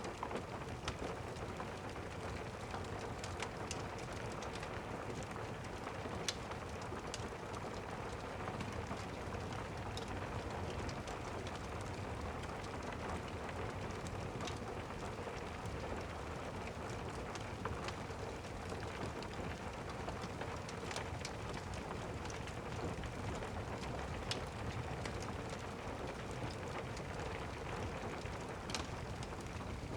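Steady rain, with sharp crackles of a log fire every few seconds.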